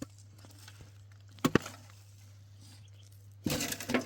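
Two quick sharp knocks close together about a second and a half in, then a short rustling, rattling burst near the end, over a steady low hum.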